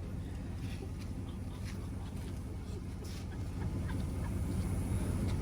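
A vehicle engine running steadily as a low rumble, getting a little louder in the second half, with a few faint ticks.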